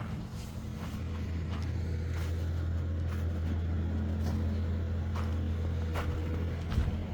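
A motor vehicle's engine running with a steady low hum that grows louder after about a second and eases near the end. Footsteps on snow about once a second.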